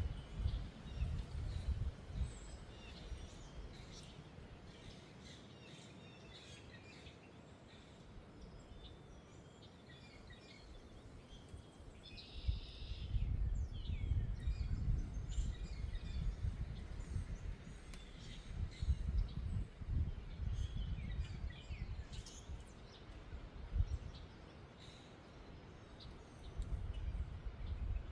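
Wind gusting against the microphone, rumbling in bursts with a calmer lull in the middle, while small birds chirp here and there.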